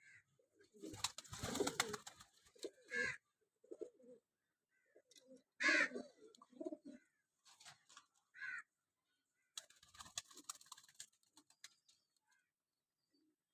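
Pigeons cooing in low, short calls, broken by several louder noisy bursts about a second in, near the middle and toward the end.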